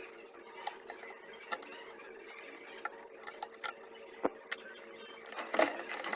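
Irregular small clicks and clinks of metal parts and tools being handled during work on a demolition hammer, with a louder knock near the end, over a faint steady hum.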